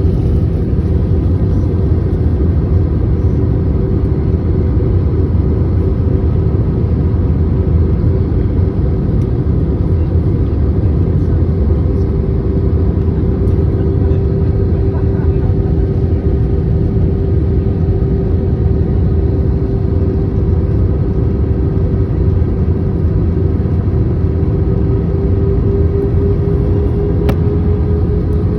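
Airliner cabin noise on the approach to landing: a loud, steady engine and airflow rumble with a steady hum running through it that rises slightly in pitch near the end.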